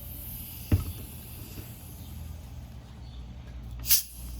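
A dull thud under a second in, then near the end a short sharp hiss as a shaken bottle of sparkling water is opened and the gas rushes out.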